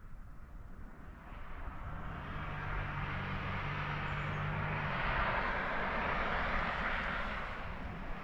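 Road vehicle noise: a low engine hum from about two seconds in to about five, under tyre and air noise that swells and then eases off.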